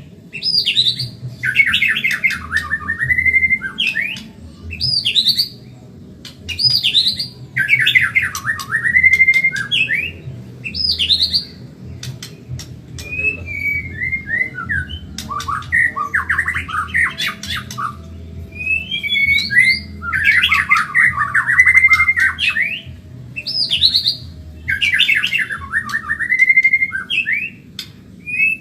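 White-rumped shama (murai batu, Medan type) singing: fast phrases of rapid notes, each lasting one to two seconds and repeated after short pauses. A steady low hum runs beneath.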